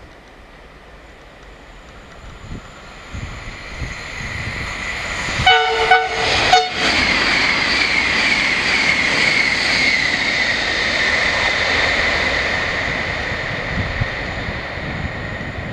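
PKP Intercity ED250 Pendolino high-speed electric train passing at speed. The rush of the approaching train builds, and a horn blast about a second long sounds as it nears. Then comes a loud rushing pass with a high whine that slowly falls in pitch and fades as the train recedes.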